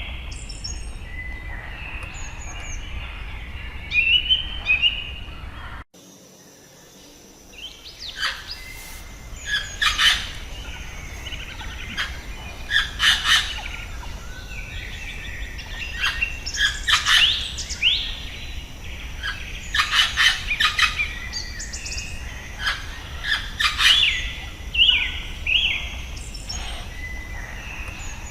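Wild birds chirping and calling in short repeated phrases over a low steady background hum. About six seconds in, the sound cuts off abruptly, and a louder chorus of sharper, faster calls and trills builds up from about eight seconds.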